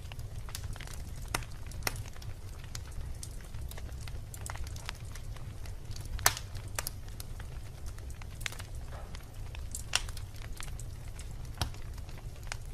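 Wood logs burning in a fireplace, crackling with irregular sharp pops over a steady low rumble; the loudest pops come about six seconds in and about ten seconds in.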